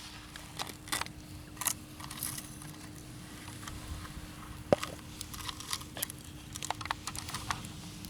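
Hot Wheels Monster Jam plastic toy monster truck pushed through sand: scattered small clicks and scrapes, with one sharp knock about halfway through. A faint steady hum runs underneath.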